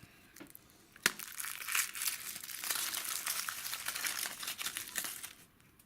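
Crinkly wrapper being torn open and crumpled by hand, with a sharp click about a second in, then continuous crackling that stops shortly before the end.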